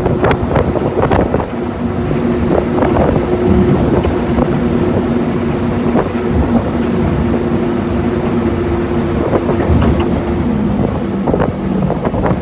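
Rolls-Royce-engined Sentinel diesel shunter heard from its cab while running along the line: a steady engine drone under frequent irregular knocks and rattles.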